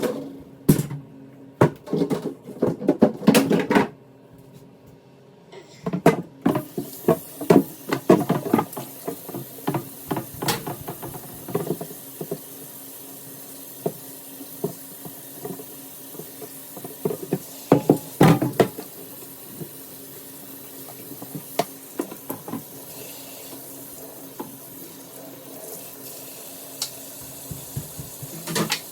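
Dishes clattering in a kitchen sink, then a tap comes on about six seconds in and runs steadily while dishes and utensils are washed, with frequent clinks and knocks.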